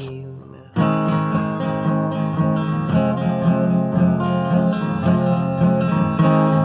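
Acoustic guitar strumming chords in a steady rhythm as an instrumental outro, starting under a second in after a short pause.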